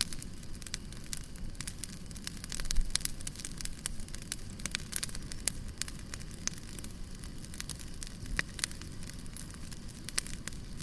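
Bonfire crackling: burning wood gives many quick, irregular snaps and pops over a low steady rumble.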